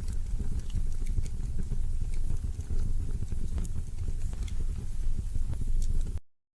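Wood fire burning in a fireplace: a steady low rumble of flames with scattered crackles and pops, cutting off suddenly near the end.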